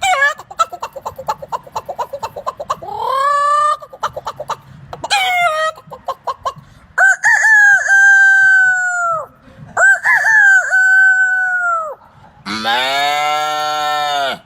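A person mimicking chickens with his voice: rapid clucking, then two long rooster crows. Near the end comes a low, drawn-out call in a much deeper voice.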